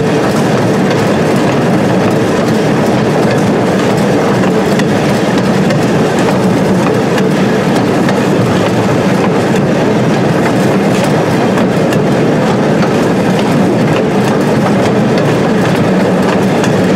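Small heritage train rolling along, heard from an open passenger car: a loud, steady rumble and rattle of wheels on the track, with scattered clicks from the rail joints.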